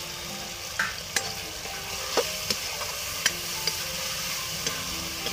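Onions, ground masala and freshly added tomatoes sizzling in oil in a kadhai (wok) while a metal spatula stirs and scrapes through them. There are several sharp clinks as the spatula strikes the pan.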